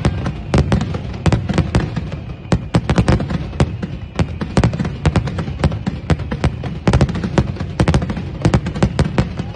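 Fireworks going off in rapid, irregular succession: many sharp bangs and crackles over deep, continuous booming.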